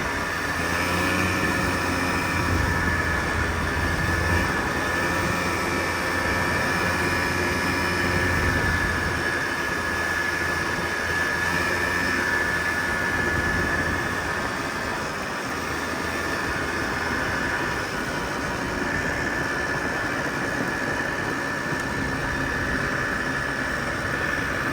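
A 1995 Polaris Trail Boss 250 ATV's two-stroke single-cylinder engine running steadily while the quad is ridden.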